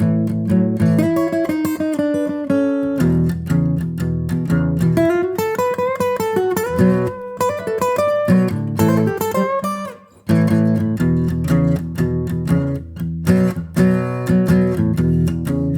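Acoustic guitar music, plucked and strummed notes over a bass line, which drops out for a few seconds in the middle before coming back.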